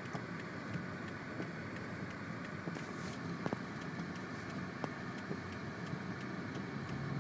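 Car cabin noise while driving through snow: a steady rumble of engine and tyres, with a few faint clicks and knocks.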